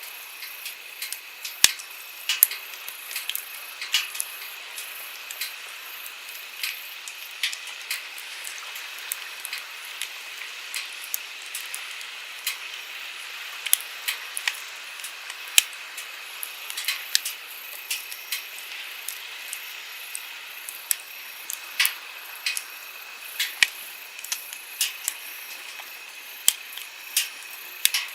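Wood campfire crackling, with sharp, irregular pops and snaps several times a second, over the steady rush of a flowing stream.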